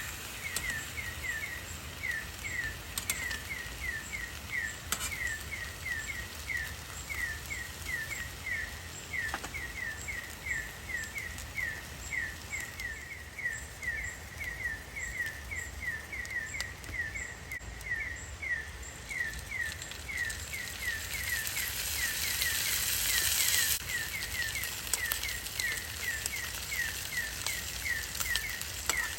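An animal's chirping call: a short high note sliding downward, repeated evenly about two to three times a second without a break. A rushing hiss swells up about two-thirds of the way through and stops suddenly.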